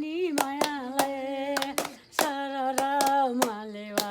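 A voice singing long held notes in two phrases, with sharp hand claps keeping a rough beat, several to the second.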